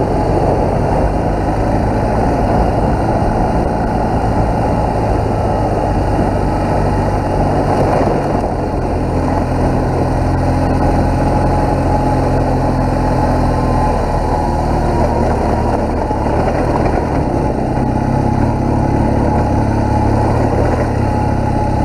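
BMW R1200GS boxer-twin engine running as the bike is ridden along a dirt trail, over a steady rush of wind noise. The engine pitch steps a couple of times as the speed changes.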